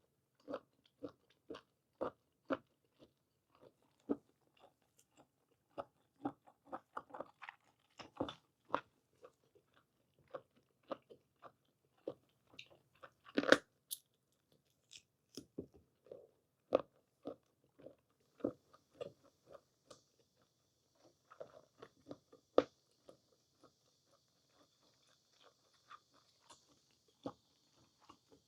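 Close-miked chewing of blanched squid: short, irregular mouth clicks and smacks, with one louder bite about thirteen seconds in.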